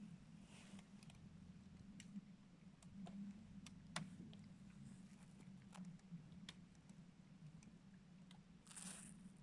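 Frozen lake ice cracking: scattered sharp clicks and snaps at irregular intervals, the loudest about four seconds in, over a faint steady low hum, with a brief hiss near the end.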